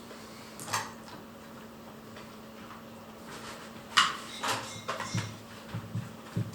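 Dishes and cutlery clinking at breakfast, a few sharp clinks just under a second in and twice around four seconds, over a steady low hum.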